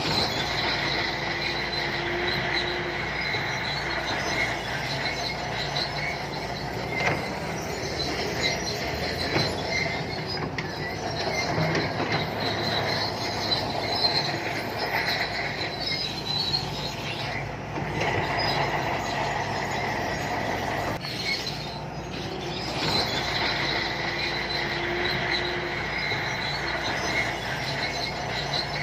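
SANTUI crawler bulldozer working: its diesel engine runs steadily while the steel tracks give a continuous high squeal, with scattered clanks.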